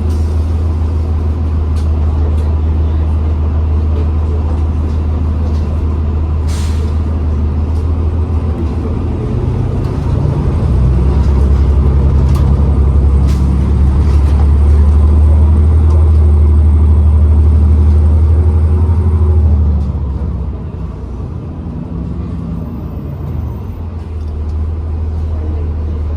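New Flyer XDE40 diesel-electric hybrid bus running with a steady low drone that grows louder from about ten seconds in and drops off sharply about twenty seconds in, with a brief hiss about six seconds in.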